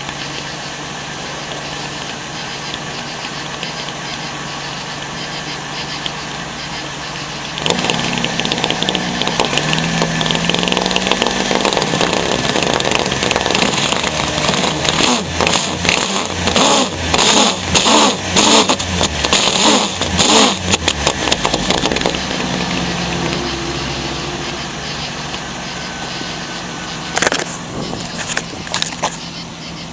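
1999 Ford Windstar's engine running with its exhaust blowing through a bike inner tube zip-tied over the tailpipe as a makeshift muffler. It idles steadily, picks up about a quarter of the way in, goes through a string of quick revs in the middle, then settles back to idle. A few sharp clicks come near the end.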